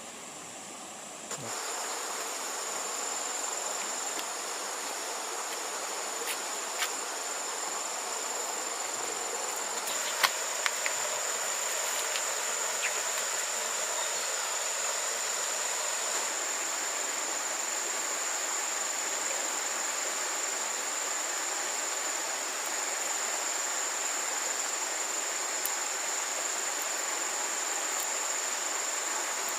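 Insects, crickets or similar, keeping up a steady high-pitched shrill, with a few faint clicks about ten seconds in.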